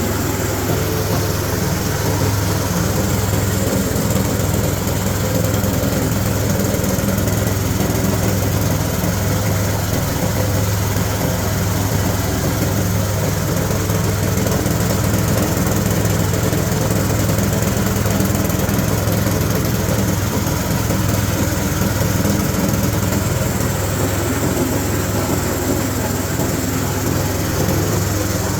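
8 HP diesel engine running steadily, driving a Type 40 husk-grinding mill that is milling corn cobs through a 1 mm screen: a continuous low engine hum under the even rush of the mill.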